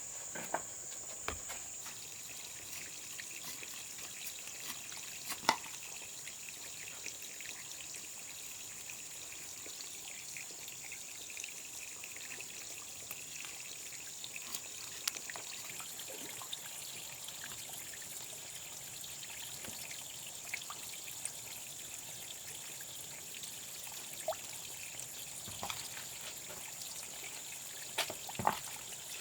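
Insects trilling steadily at a high pitch, with scattered light clicks and taps.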